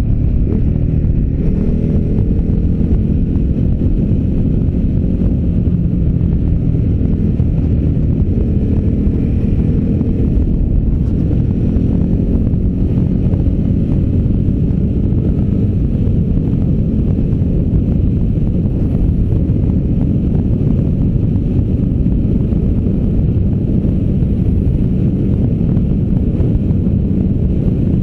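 V-twin adventure motorcycle engine running at speed on a fast ride, with heavy wind buffeting on the microphone. The engine note shifts in pitch during the first few seconds, then holds steady.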